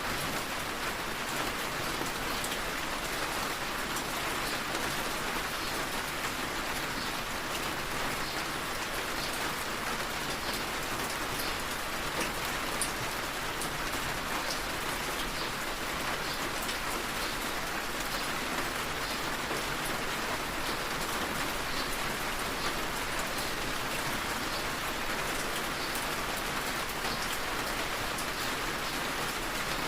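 Steady rain falling, a dense even hiss with many small drop ticks on a hard surface.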